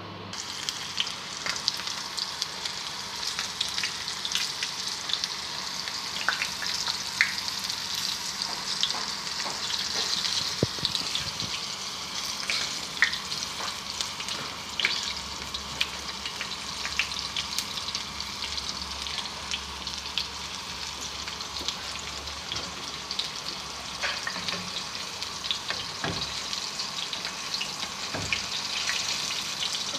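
Chicken frying in hot oil: a steady sizzle with scattered pops and crackles.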